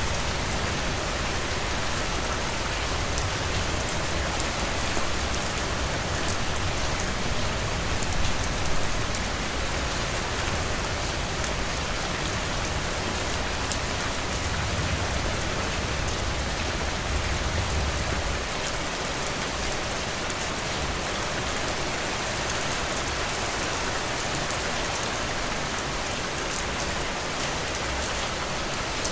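Heavy rain falling steadily, a dense hiss of many drops with scattered individual drop hits and a low rumble underneath that eases off about two-thirds of the way through.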